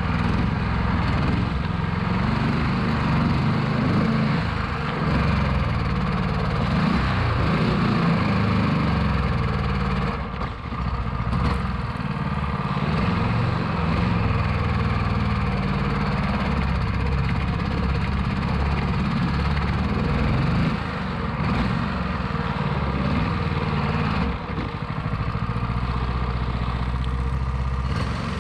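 13-horsepower longtail mud motor engine running under load, driving an 8-inch Hurricane prop through thick grass. It runs steadily, with its speed dropping briefly about three times; the owner says the engine is not running its best.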